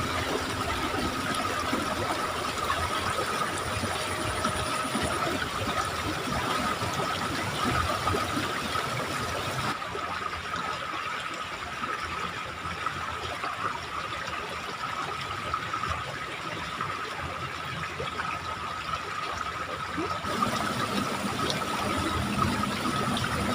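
Steady rushing of water flowing in a small ditch, with a constant high thin tone over it. The sound goes duller for about ten seconds in the middle.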